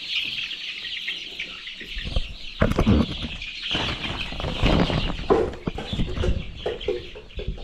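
A flock of chicks peeping without pause, many high calls overlapping. From about two seconds in, irregular knocks and clatter sound close by.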